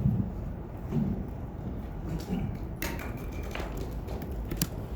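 Low room rumble with shuffling and furniture sounds as people stand up from a table, and a couple of sharp clicks or knocks near the middle and end.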